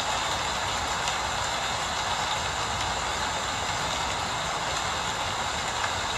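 Steady rain falling, an even hiss with no let-up, over a low rumble.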